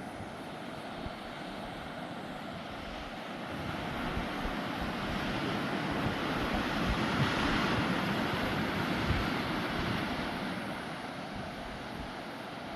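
Rushing noise of a wild river, with wind buffeting the microphone. It swells louder for a few seconds in the middle, then fades back.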